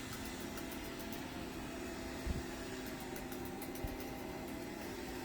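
DeenKee DK700 robot vacuum running with a steady fan and motor hum. Two soft low thumps come about a second and a half apart near the middle.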